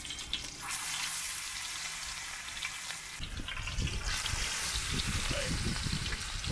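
Minced-meat kebab patties frying in shallow oil on a large flat iron pan, a steady sizzling hiss. The sizzle dips for a moment about three seconds in and swells again as another patty is laid into the oil, with low rumbles underneath.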